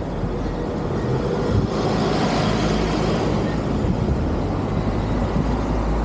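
A motor vehicle running, with a steady low rumble and road and wind noise that grows fuller about two seconds in.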